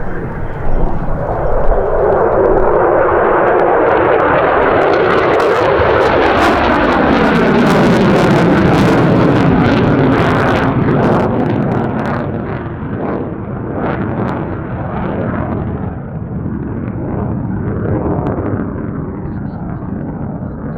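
F-22 Raptor's twin Pratt & Whitney F119 turbofans running at high power through a pedal turn. The jet noise is loud, with a tone that falls in pitch and a crackle through the middle, then it fades over the last several seconds.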